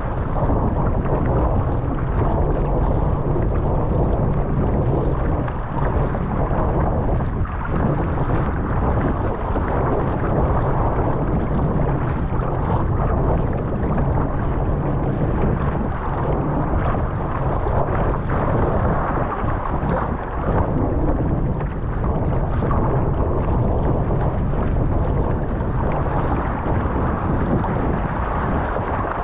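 Strong wind buffeting the microphone in a steady rumble, mixed with rushing water and waves, in a 25-30 knot wind on open water.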